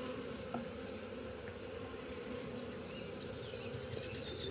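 Honeybees buzzing steadily around an opened hive, a dense low hum of many bees in flight.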